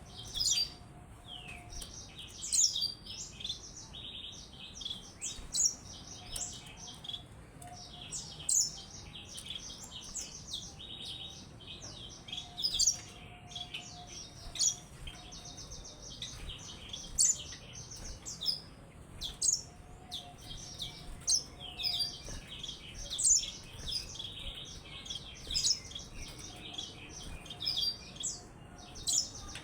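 Yellow-fronted canary (Mozambique canary) singing: a long run of rapid, high, sharp chirps and fast trills, with louder notes every second or two.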